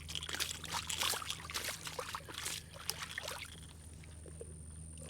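Hooked channel catfish splashing and thrashing in shallow water as it is brought to the bank, a run of irregular splashes that eases off about halfway through.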